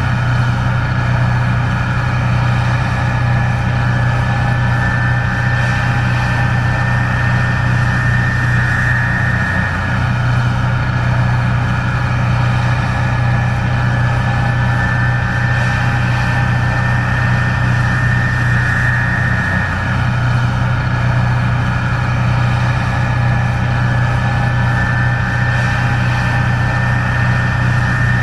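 Case IH 1660 Axial-Flow combine running steadily while harvesting corn: a constant low diesel drone with a steady high whine over it.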